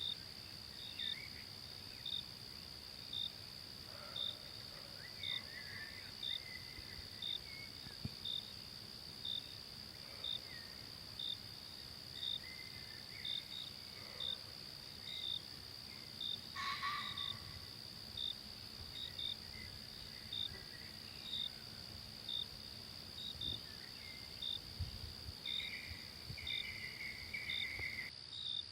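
Forest ambience of insects: a steady high drone with a cricket chirping about once a second, sometimes twice in quick succession. Faint warbling bird calls come and go, with a stronger call midway and near the end.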